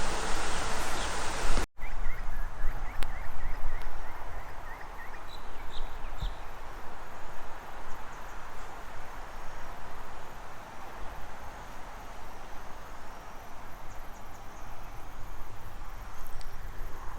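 Outdoor ambience: a loud steady rushing noise for the first couple of seconds, then, after a sudden cut, a quieter steady hiss with faint short bird chirps.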